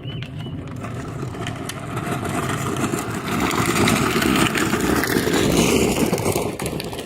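A vehicle passing close by, growing louder to a peak about four to six seconds in, then fading.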